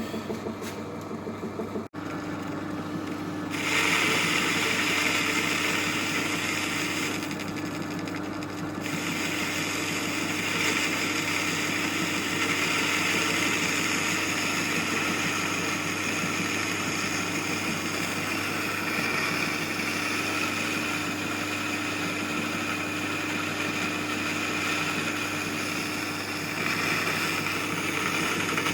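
An old metal-turning lathe running, its motor giving a steady hum. A hiss of the tool cutting starts about three and a half seconds in, eases off briefly, and grows louder again near the end.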